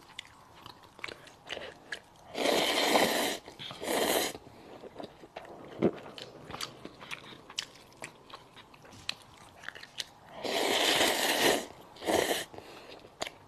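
Thin seasoned noodles slurped in from chopsticks twice: each time a long noisy slurp of about a second, then a short second one. Soft chewing clicks come between them.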